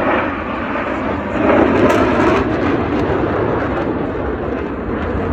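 Blue Angels F/A-18 Super Hornet jets flying past with a loud, steady jet noise that swells about a second and a half in, then slowly eases off.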